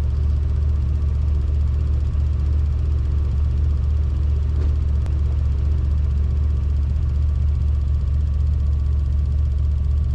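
Autozam AZ1's mid-mounted turbocharged three-cylinder engine idling steadily, a constant low hum heard close by from the rear of the car.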